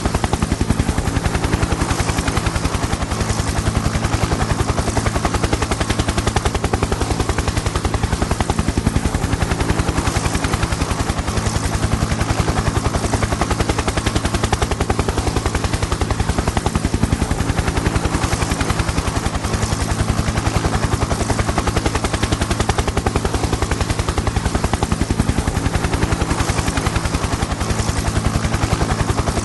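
Helicopter in flight: a rapid, steady chopping of the rotor blades over a low hum.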